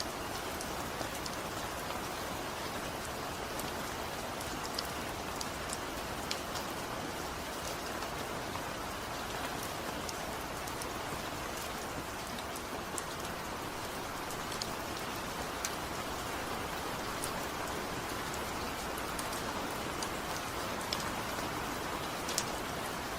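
Heavy rain falling steadily, with no thunder: a dense even hiss of rain on surfaces, with scattered sharp drop ticks.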